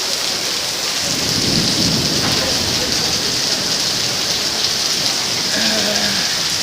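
Heavy rain pouring down steadily in a thunderstorm, with a low rumble of thunder swelling about a second in.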